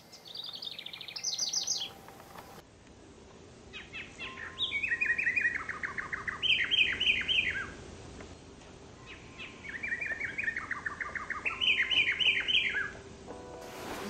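A songbird singing three songs, each a string of quick trilled phrases that step down in pitch and then jump higher near the end; the first song is short, the next two longer.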